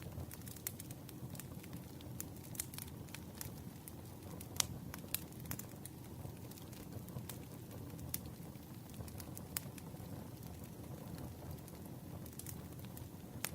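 Campfire crackling: irregular sharp pops of burning wood over a steady low rumble of flames, with one louder pop about halfway through.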